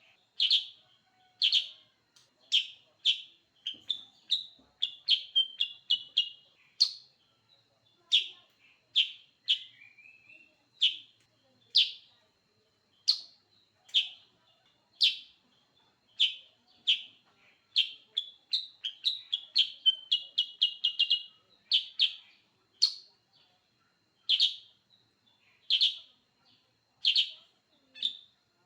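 Kutilang sutra bird calling: short, sharp chirps about a second apart, now and then breaking into quick runs of several chirps.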